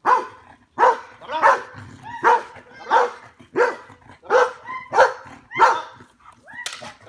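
Belgian Malinois barking in a steady run of about ten loud barks, one every half second or so, with a short pause near the end: the drive barking of a dog working up to bite work.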